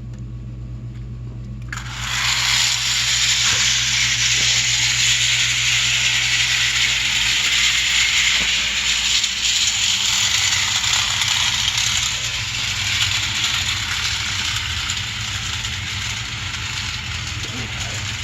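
Bing clockwork tinplate locomotive running on its track: a steady whirring rattle of the wound-spring gear train and wheels on the tin rails, starting about two seconds in and easing a little later on.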